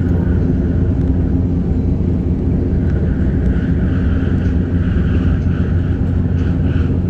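KLIA Express train running, with a steady low rumble of the wheels on the track. A higher whine joins in about three seconds in.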